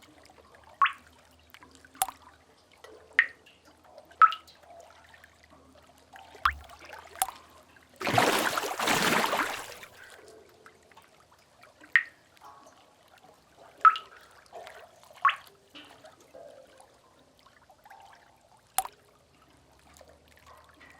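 Water drips plinking one at a time into pooled water, about ten drops at irregular intervals. About eight seconds in, a splash of water rushes for about two seconds.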